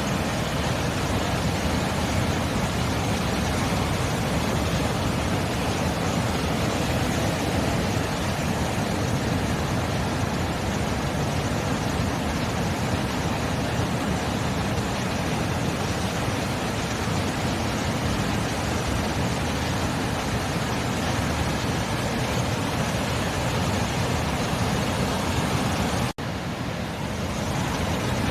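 Ocean surf making a steady, even rush of noise. It cuts out for an instant near the end, then comes back.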